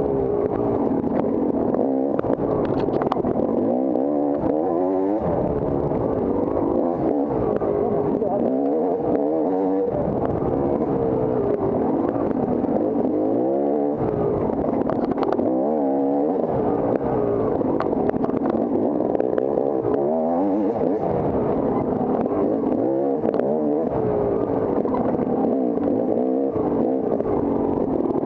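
Off-road motorcycle engine racing over a trail, its pitch rising and falling again and again as the throttle is opened and shut every second or two, with an occasional knock or clatter.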